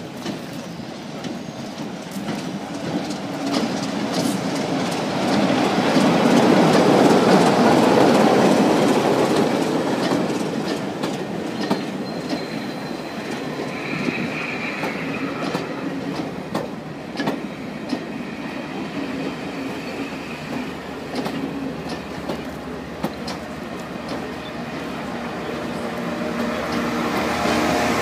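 A diesel-hauled passenger train passing close by: a loud rush as the Class 27 locomotive goes past about a quarter of the way in, then the coaches rolling by with a steady clickety-clack over the rail joints and a brief wheel squeal. Near the end the engine drone of Class 68 68001 on the rear grows louder as it draws level.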